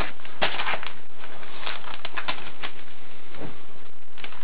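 Irregular rustling with scattered light clicks and taps.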